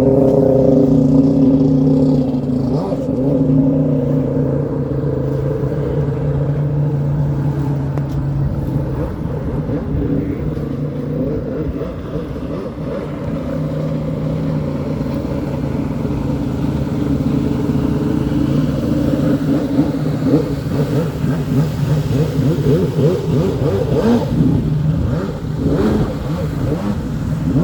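An engine running at a steady pitch, fading and coming back over the stretch, with rougher noisier passages near the end.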